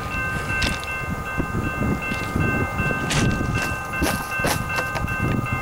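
Distant approaching freight train: a low rumble under several steady high ringing tones, with a few sharp ticks in the second half.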